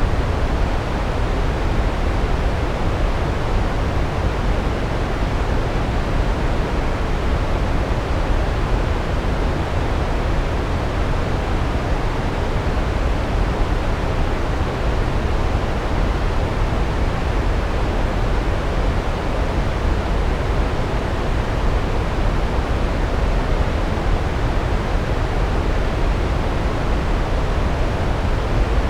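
Large waterfall, water cascading down rocks in a steady, deep roar that holds unchanged throughout.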